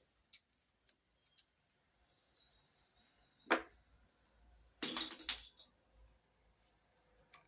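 Metal tools and engine parts clinking during hands-on work on the engine: one sharp clink about three and a half seconds in and a short cluster of clinks about a second later, with faint small clicks between.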